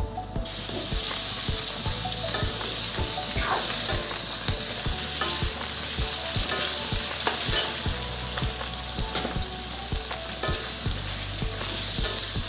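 Raw chicken pieces tipped into a hot kadai of frying onions, setting off a sizzle about half a second in that goes on steadily. Over it, a metal ladle stirring and scraping the pan in repeated short clicks.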